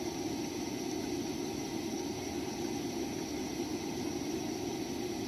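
Camplux BW422 portable propane tankless water heater running, a steady rushing of the burner and the water flowing through it.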